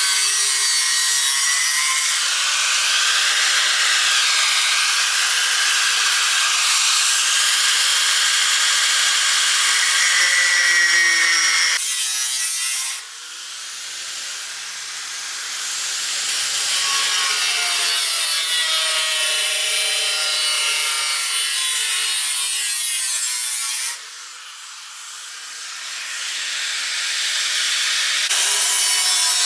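Angle grinder working on iron bar: a continuous high grinding whose pitch wavers. It eases off abruptly twice, about halfway through and again near the end, then builds back up as the disc bites again.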